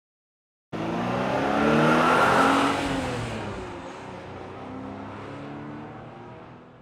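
Car sound effect: a car's engine comes in suddenly and drives past, growing louder, then dropping in pitch and fading away.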